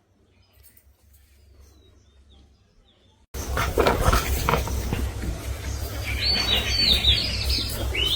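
Small birds chirping, faint at first. A little over three seconds in, a loud rough background noise with a low rumble suddenly comes in, and more short high chirps follow over it near the end.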